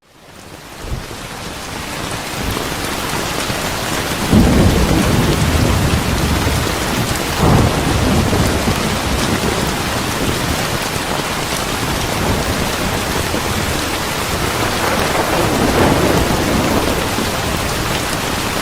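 Steady rain falling, with rolling thunder rumbling in about four seconds in and again twice later. The rain fades up from a brief dropout at the very start.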